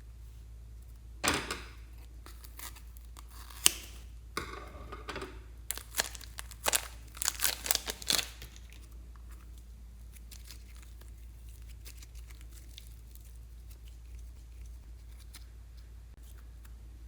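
Slime being handled, making a run of sharp, sticky crackles and pops for about seven seconds, followed by only faint scattered clicks.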